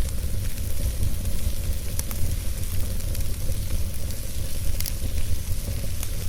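Log fire burning in a fireplace: a steady low rumble and hiss, with a few sharp crackles.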